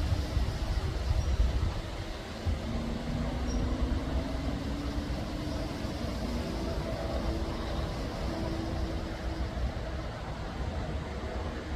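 A railway locomotive running: a steady low rumble with faint held engine tones above it.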